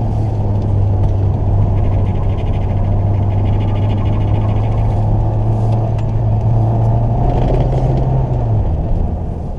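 Renault Twingo's engine heard from inside the cabin, running at fairly steady revs while the car corners on track, over road and wind noise. The engine note fades near the end.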